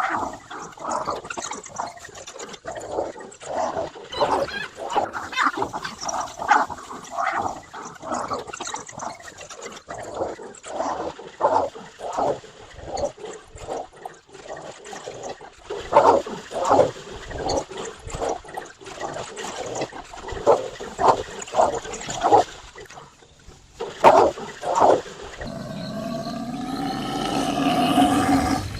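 Animal calls during a lion attack on a waterbuck: short pitched calls, one or two a second, some of them loud. Music swells in over the last few seconds.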